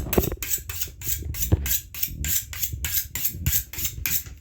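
Kitchen knife being sharpened: a quick, even run of metallic scraping strokes, about five a second.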